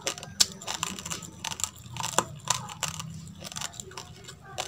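Close-miked chewing of a mouthful of raw rice: irregular sharp crunches, several a second, as the hard grains crack between the teeth.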